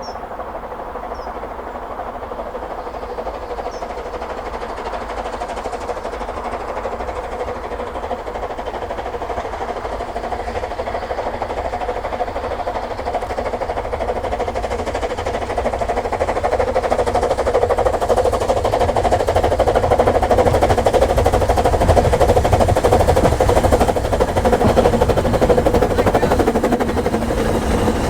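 Narrow-gauge steam train approaching, its sound growing steadily louder and loudest near the end.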